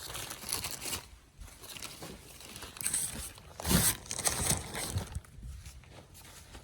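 Hands working at a greasy axle half shaft: irregular rustling and scraping of metal and shop rags, with a louder knock and scrape about four seconds in.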